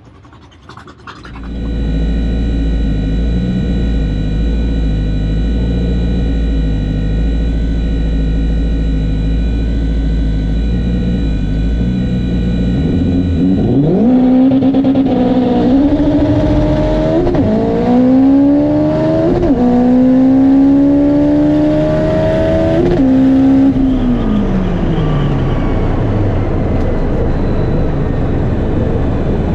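Turbocharged all-wheel-drive Honda drag car's four-cylinder engine, heard from inside the car. It is held at steady revs on the line, then launches at full throttle at about the halfway point. The revs climb through about four quick upshifts, each a sudden drop in pitch, before they fall away near the end as the driver lifts off the throttle.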